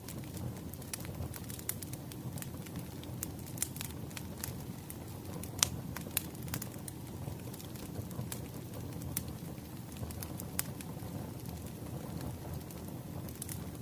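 Wood fire crackling: a steady low rumble of burning logs with irregular sharp pops and snaps, the loudest about five and a half seconds in.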